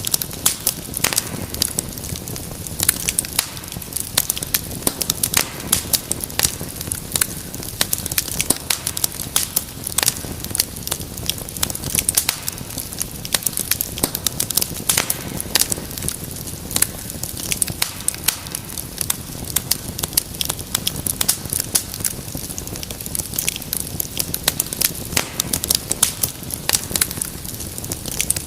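Wood fire in a fireplace crackling: dense, irregular snaps and pops over a steady low rumble of burning.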